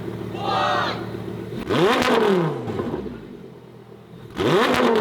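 Lamborghini Sesto Elemento's V10 idling, then revved in two sharp throttle blips. The first comes just under two seconds in and the second near the end, each rising and falling quickly back to idle.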